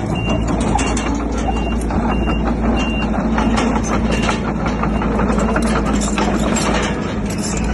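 Bulldozer's diesel engine running under load with tracks and rock clanking, while a reversing alarm beeps steadily for about the first three seconds and then stops.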